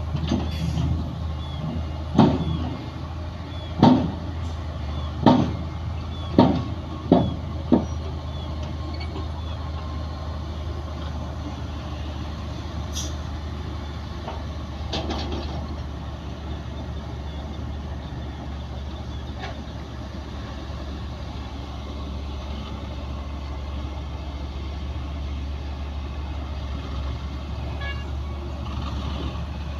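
Heavy diesel earthmoving machinery running steadily with a low drone, with six sharp knocks in quick succession during the first eight seconds or so.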